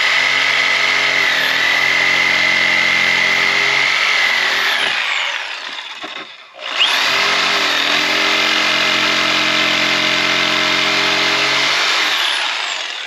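Corded jigsaw cutting a bird's-beak notch in a wooden rafter board, in two long cuts of about five and six seconds with a short pause between. Each cut starts with the motor spinning up and ends with it winding down, and the steady whine dips briefly under load.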